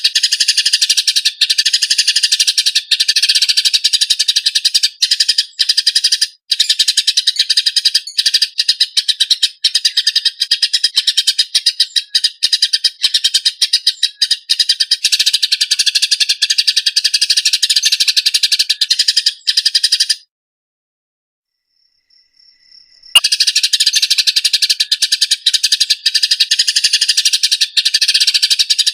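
Eurasian tree sparrows chirping in a fast, tightly packed stream of harsh calls, the rough chatter of sparrows fighting. The chirping breaks off for about three seconds past the middle and then starts again abruptly.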